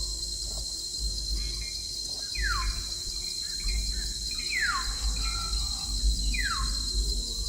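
A bird calling three times, each call a quick falling whistle, about two seconds apart, over a steady high insect drone and a low rumble.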